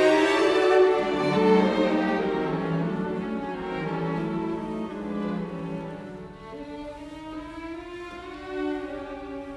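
Background music of bowed strings, violin over cello, playing slow held notes that grow gradually quieter.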